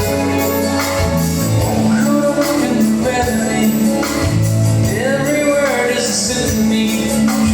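Live soft-rock band playing an instrumental passage: sustained chords over a steady bass, with a lead line that slides in pitch about five seconds in.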